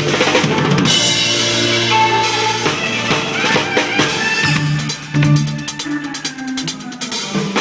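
Drum kit played along to a recorded band track. The first few seconds have a heavy cymbal wash, then the cymbals ease off and bass drum and snare hits sit under the band's pitched parts, with quick hits coming in near the end.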